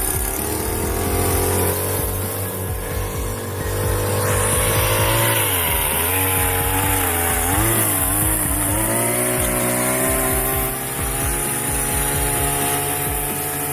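An engine running steadily, its pitch dropping and rising a few times about halfway through, then climbing slowly.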